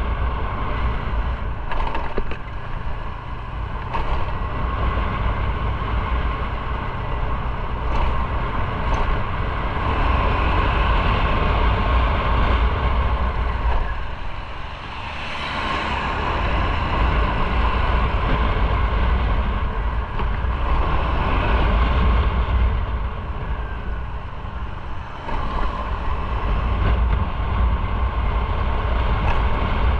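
Motorcycle on the move: its engine runs under a heavy rumble of wind on the microphone, easing off briefly about halfway through and again near the end.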